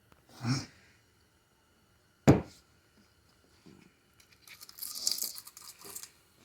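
Workshop handling noises from transmission teardown on the bench: a dull bump, then one sharp hard knock about two seconds in, then a second or so of scraping and crinkling.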